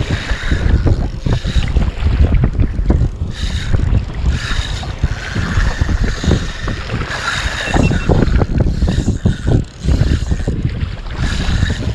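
Wind buffeting an action camera's microphone in uneven gusts, with sea water splashing and slapping around a fishing kayak in choppy water.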